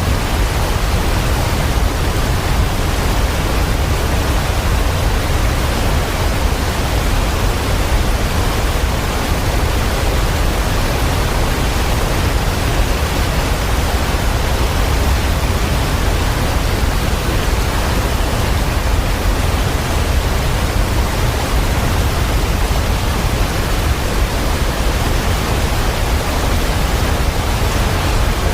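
Heavy rain, a steady, even rushing noise with no single drops or breaks standing out.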